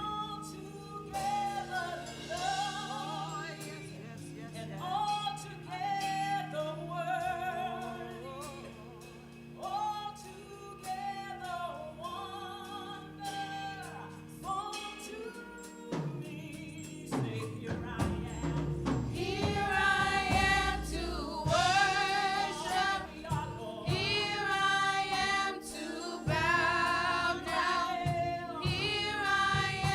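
Congregational worship song: sung melody over sustained accompaniment, swelling about halfway through as low bass notes and fuller accompaniment come in and the music grows louder.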